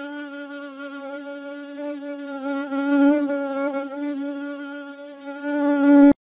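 A fly buzzing in flight: a steady, even-pitched drone that swells louder about three seconds in and again just before it cuts off suddenly near the end.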